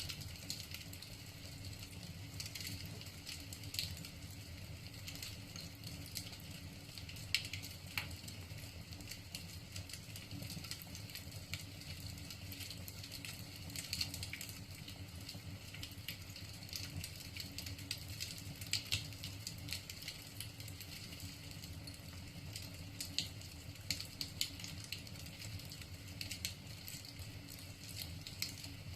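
Wood logs burning in a fireplace, crackling with irregular sharp snaps and pops over a steady low rush of the fire.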